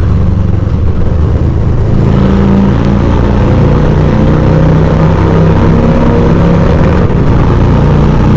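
Harley-Davidson Electra Glide V-twin engine running steadily at road speed while riding through a tunnel. The engine note becomes clearer and more pronounced about two seconds in.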